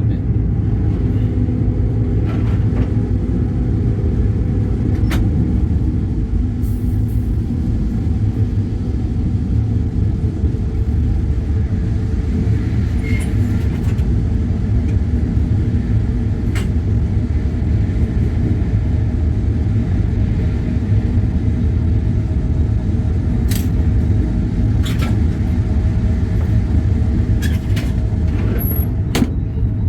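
A vehicle running with a steady low rumble, with a few faint clicks scattered through it.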